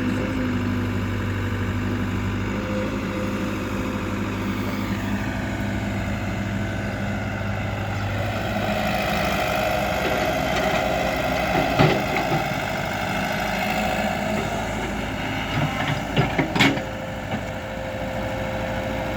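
Heavy diesel engine of a tractor or backhoe loader running steadily, its pitch shifting partway through. A sharp knock comes about twelve seconds in, and a quick cluster of knocks follows near the end.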